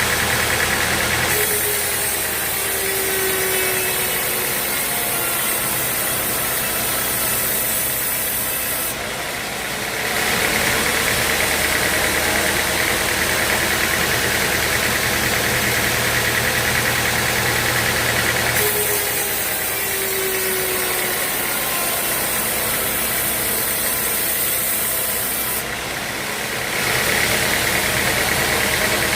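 Sawmill machinery running steadily: an engine-like drone with a broad hiss over it. The character of the sound shifts every several seconds, and one stretch repeats about 17 seconds later.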